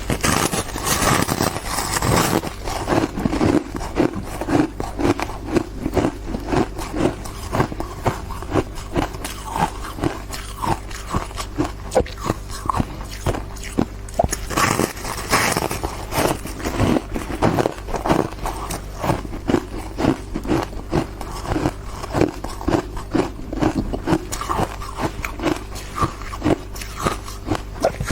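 Close-miked ice being bitten and chewed, a steady run of crisp crunches a few times a second, with louder, harsher stretches near the start and about halfway through.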